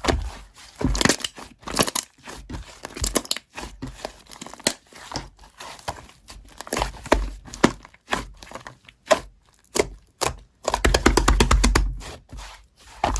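Slime being squished and pressed by hand: irregular crackly clicks and pops with short squelchy bursts, the loudest about eleven seconds in.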